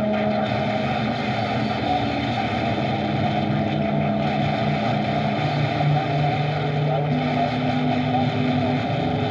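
Radio receiver's open-channel band noise: a steady hiss with several low, held whistling tones that come and go every few seconds, the heterodyne tones of carriers on a sideband channel, with no voice coming through.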